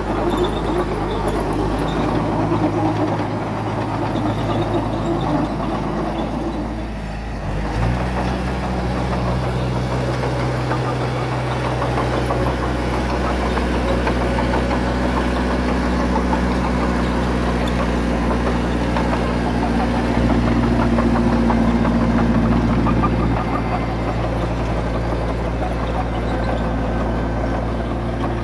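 Heavy diesel engine of earth-moving machinery running steadily. It eases off briefly about seven seconds in, then picks up to a higher, steady pitch about a second later.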